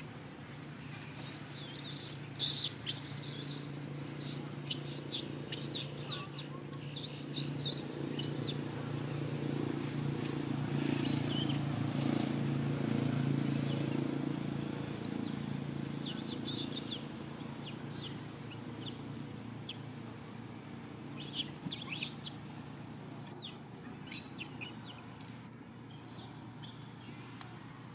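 Small birds chirping in quick, high twittering runs that come in clusters: over the first several seconds, again in the middle, and about three quarters through. Beneath them runs a low steady hum that swells and then fades midway.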